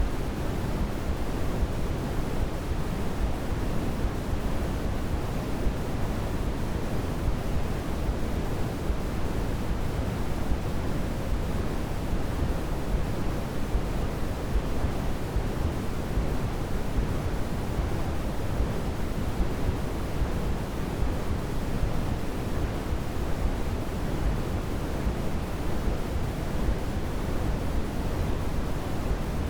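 Steady, unchanging synthetic noise, an even hiss heavier in the low end than the highs, like pink noise, with no pulses or changes.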